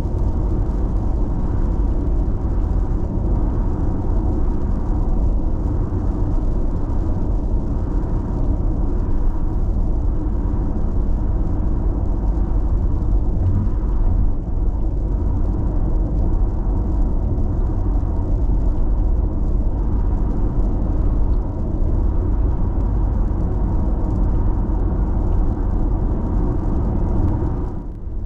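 Steady road noise inside a car cruising on an expressway: a low tyre and engine rumble. The rumble briefly dips just before the end.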